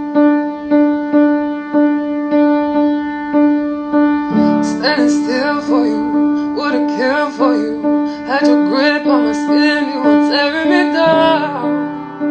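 Live piano ballad: a piano plays one repeated note in a steady pulse, and about four seconds in a woman's voice begins singing over it.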